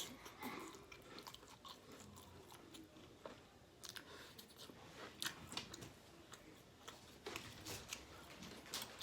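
Close-miked chewing and mouth sounds: soft wet smacks and small clicks as a mouthful of Panda Express takeout is eaten.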